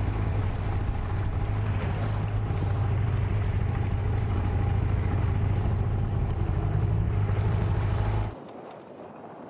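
Outboard motor, a Hidea 9.9, running steadily as the boat moves, with wind noise over it; the sound cuts off abruptly about eight seconds in.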